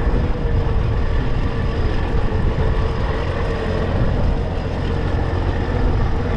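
Strong wind buffeting the microphone in a steady low rumble, with a heavy truck engine running underneath and giving a faint steady whine.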